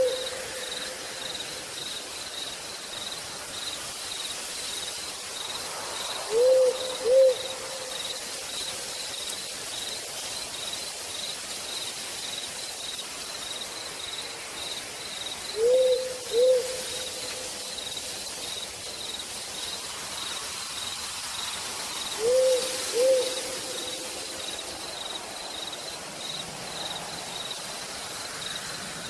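Night-forest ambience: an owl gives a pair of short hoots about every eight seconds, the loudest sound, over a cricket's steady pulsing chirp and the even hiss of light rain.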